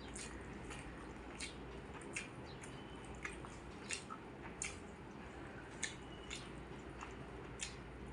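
Close mouth sounds of someone eating a rice meal: irregular wet smacks and clicks of chewing, about one every half second to a second, over a low steady hum.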